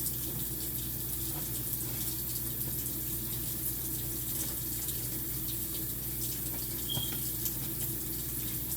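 Faucet water running steadily into a sink.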